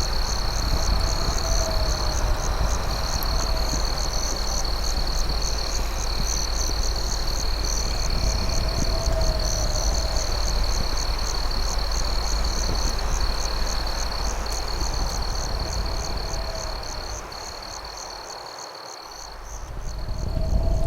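Night nature ambience: crickets trilling steadily under a faster, pulsing high chirp, with a low gliding call repeating every few seconds over a steady hiss of campfire noise. Near the end the low rumble and hiss drop away for a second or two, then come back.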